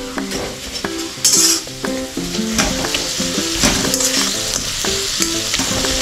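Onion-tomato masala with ground spices frying in oil in a metal kadai, sizzling steadily while a spatula stirs and scrapes through it, with a brief louder sizzle about a second in. Soft background music plays underneath.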